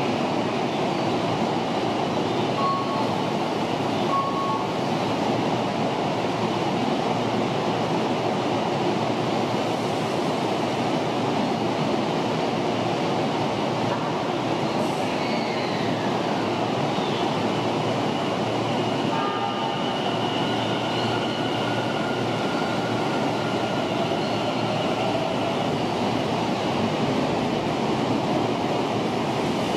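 Tobu 50000-series ten-car electric commuter train at a station platform, closing up and pulling out: a steady rumble of the train and station, with a thin drive whine from the departing train joining about two-thirds of the way through.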